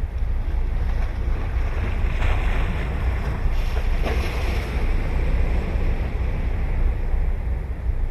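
Ocean surf on a beach, with one wave breaking and washing in about two seconds in and fading again a few seconds later, over a steady low rumble of wind on the microphone.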